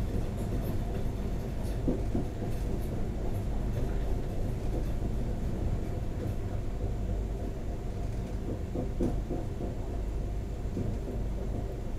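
Steady low rumble of a moving diesel train heard from inside the carriage: wheels running on the rails, with a few short knocks from the track.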